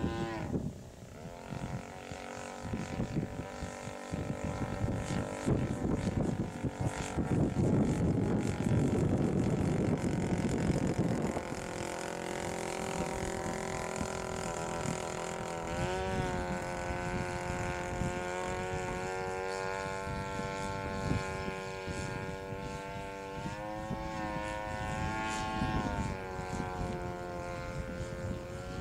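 Chainsaw two-stroke engine driving the propeller of a homebuilt aircraft, running steadily with changes in speed: the pitch drops right at the start, then climbs again about 16 seconds in and once more near 24 seconds. Between about 5 and 11 seconds a loud rushing noise rises over the engine.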